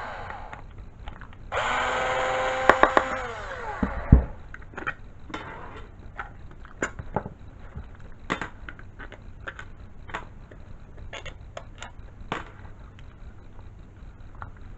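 Small electric hoist motor winding down, then running again for about two seconds with a few sharp clicks, and spinning down to a heavy thud about four seconds in. After that come scattered light clicks and knocks.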